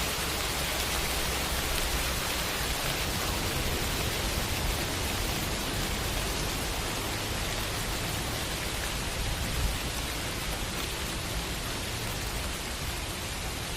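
Steady rain sound effect: a dense, even hiss of falling rain.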